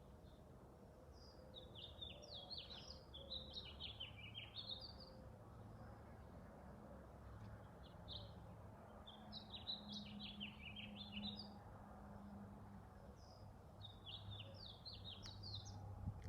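A songbird singing three bursts of quick, jumbled chirping notes, each lasting a few seconds with pauses between, faint over a low steady background hum.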